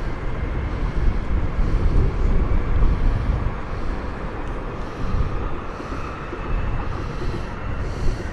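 A train rolling through the station: a heavy low rumble that swells and eases, with gusty wind buffeting the microphone.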